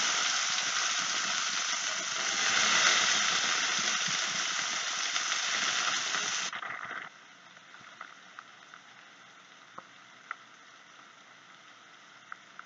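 Chopped onions frying in hot oil with whole spices in a kadai: a loud, steady sizzle. It cuts off suddenly about seven seconds in, leaving only a few faint ticks.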